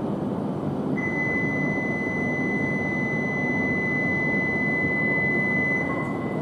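Low, steady rumble of an E5-series shinkansen at a station platform. About a second in, a steady high-pitched electronic tone starts and holds for about five seconds before cutting off.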